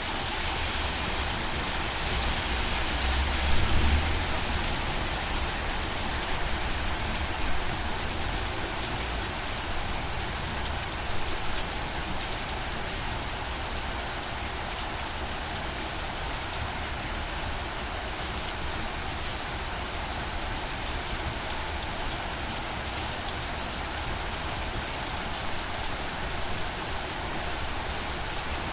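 Steady rain falling, an even hiss of drops, with a brief low rumble about three seconds in.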